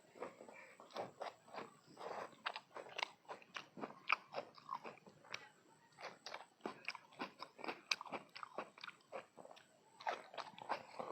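Close-miked chewing and crunching of food: a quick, irregular run of small crunches, with a short pause about halfway through.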